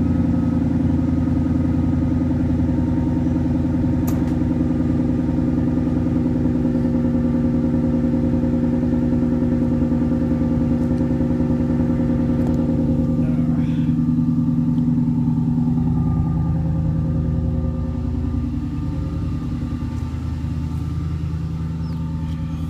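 Infiniti M45's 4.5-litre V8 idling steadily through Flowmaster 40 series mufflers, heard at the tailpipes. It drops slightly in level about eighteen seconds in.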